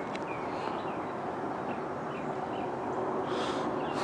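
Outdoor morning ambience: a steady rushing background with small birds chirping in short, repeated falling notes.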